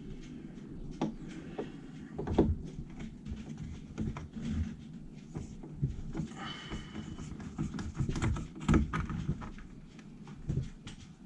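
Scattered knocks, clunks and a short squeak as a small wooden box is unscrewed and worked loose from the cockpit of a small boat.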